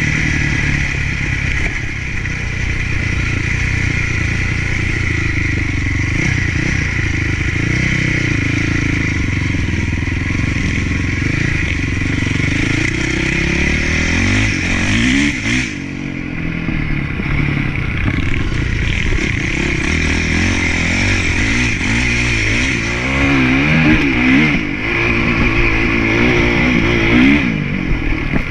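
Motocross bike engine running under riding load, its pitch rising and falling repeatedly as the throttle is opened and shut. The revving is most pronounced about halfway through and over the last few seconds.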